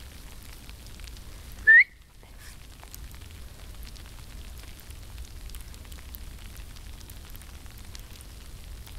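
Faint steady crackling patter of fine snow falling through the trees. About two seconds in, one loud, brief high-pitched tone rises sharply and cuts off.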